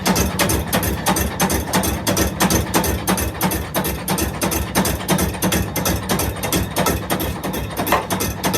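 Workshop machinery running with a fast, even clatter of about six to seven clicks a second over a steady hum.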